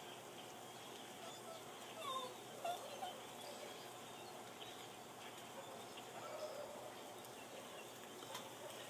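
Faint, scattered short calls from a flock of birds over a steady background hiss, with a brief cluster of louder chirps about two to three seconds in.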